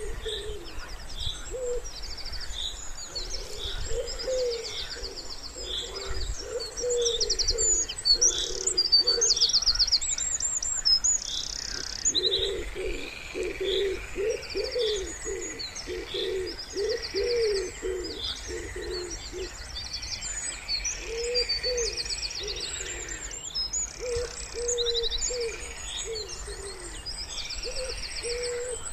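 Wood pigeons cooing in repeated low phrases, most steadily in the middle and more sparsely toward the end, while small songbirds keep up high chirps and fast trills over them.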